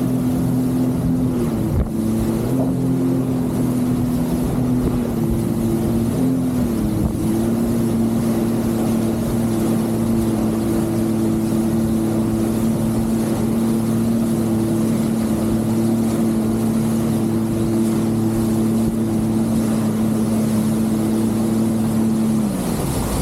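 Jet ski engine running fast and steady, with a few quick throttle changes in the first several seconds. Near the end the engine note drops away as the throttle is eased off.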